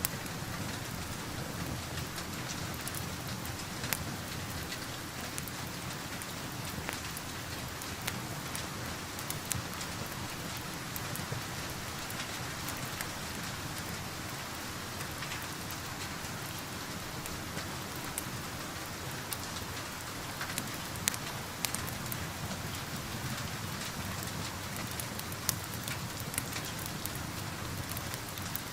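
Steady rain heard from indoors, an even hiss, with scattered sharp crackles and pops from a wood fire at irregular moments.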